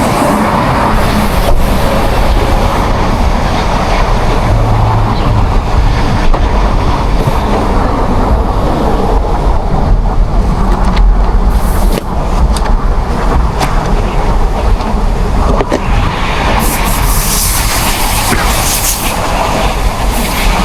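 A 2024 Ford Mustang GT's 5.0-litre V8 and its road noise while driving, a steady low rumble under a wash of tyre and wind noise. A brighter hiss rises for a couple of seconds near the end.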